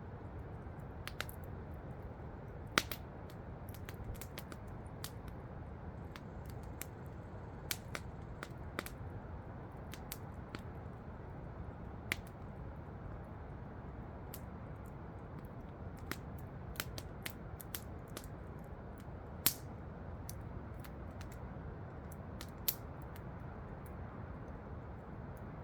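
Campfire crackling with irregular sharp pops and snaps, the loudest three well apart, over a steady low rush from a waterfall.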